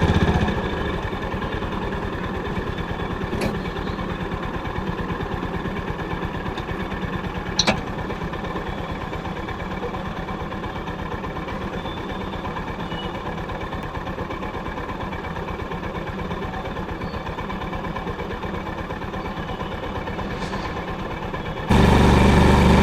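Honda CB350's air-cooled single-cylinder engine idling steadily, its exhaust pulsing evenly. There are two sharp clicks, at about three and a half and nearly eight seconds in. Near the end the sound abruptly gets much louder.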